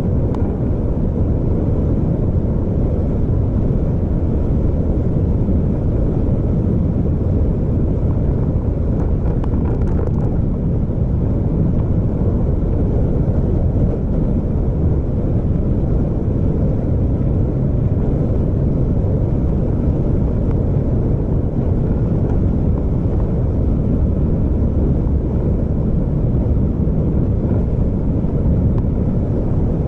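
Vehicle travelling along a road: a steady low engine and road rumble with some wind noise, unchanging throughout.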